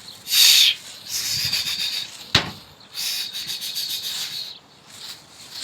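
Pigeons' wings flapping, heard as bursts of rustling noise, loudest just after the start. A single sharp click comes a little past two seconds in.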